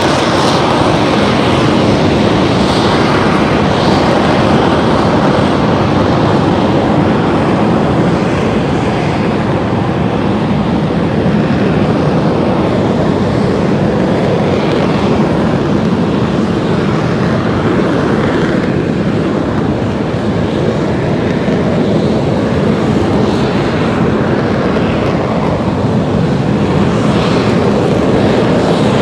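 BAE Hawk jets' turbofan engines running, a loud steady rush that swells and eases slightly.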